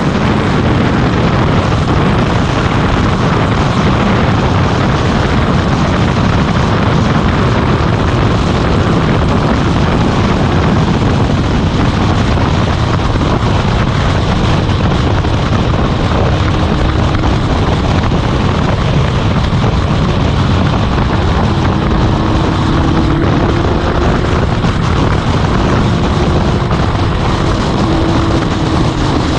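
Motorcycle riding at a steady road speed: a loud, even rush of wind over the microphone, with the engine's faint drone underneath, its pitch shifting a little in the second half.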